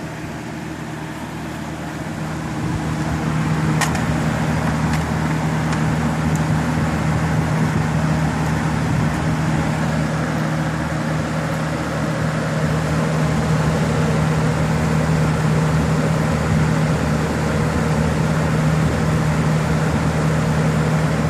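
Electric house fan of a homemade water-coil garage cooler running, a steady motor hum under a rush of air that grows louder about two seconds in and then holds. A single click comes shortly after.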